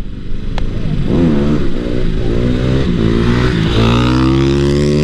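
Motorcycle engine revving and accelerating, its pitch dipping and rising a few times, then climbing steadily over the last couple of seconds, with wind noise.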